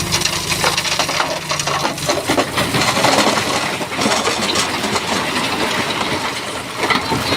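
Stones clattering and grinding against each other as a Shantui bulldozer pushes rock, with the dozer's diesel engine running underneath. The engine drops back about two seconds in while the clatter of stones carries on.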